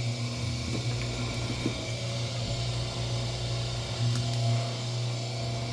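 Wire stripping machine's motor running with a steady hum while thick insulated copper wire feeds through it.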